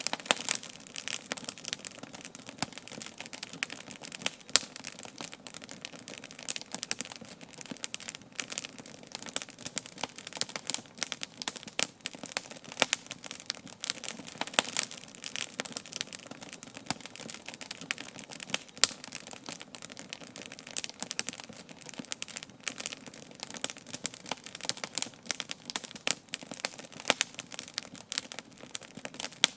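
Wood campfire burning, with dense, irregular crackling and snapping pops over a soft steady hiss of the flames.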